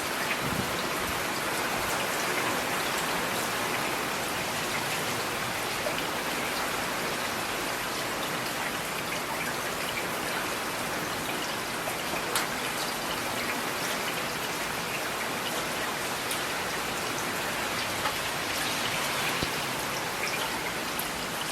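Steady rain falling on hard surfaces, an even hiss with scattered individual drop ticks, one slightly louder near the middle.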